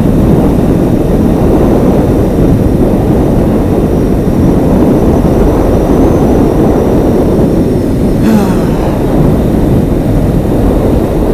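Motorcycle running at a steady cruising speed, its engine and wind rush heard together on the rider's microphone as a loud, even drone.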